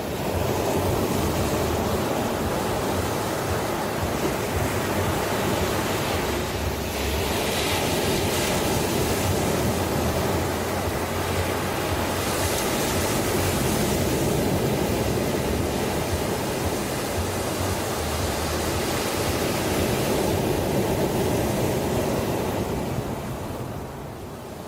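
Ocean waves breaking and washing in a steady, continuous rush, with a few brighter surges of spray and a slight easing near the end.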